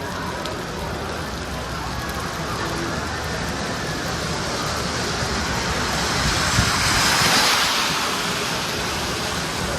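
Steady heavy rain, with a vehicle passing on the wet road: its tyre spray swells about two-thirds of the way through and fades.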